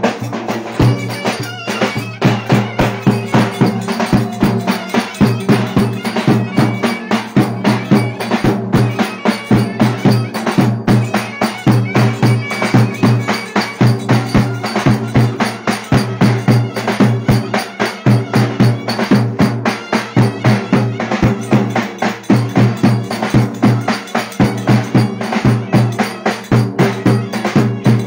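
Live Turkish wedding dance music: a reedy wind melody over a steady drone, driven by a fast, even drumbeat.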